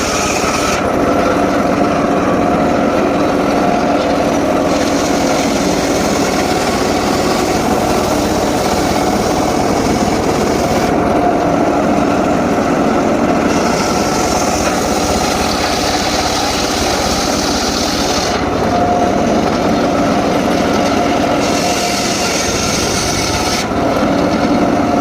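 Homemade circular saw running loud and steady while sawing mahogany, the hissy cutting noise coming and going every few seconds as the wood feeds through the blade.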